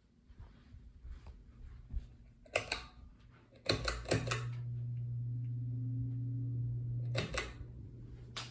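Ceiling fan switch clicks: a single click, then a quick run of clicks that starts a steady electrical hum. A further click about seven seconds in cuts the hum off.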